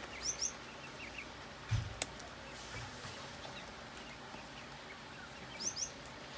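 Birds giving short, paired, rising chirps a few times, high-pitched pairs just after the start and near the end and a lower pair about a second in. About two seconds in comes a low thump and then a sharp click, the hand cutters snipping at the plastic crate.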